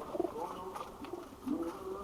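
Domestic pigeons cooing, low soft calls heard near the start and again about a second and a half in.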